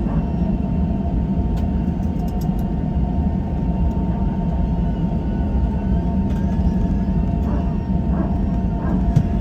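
Steady low rumble in the cabin of an Airbus A321 airliner, with a faint steady whine above it.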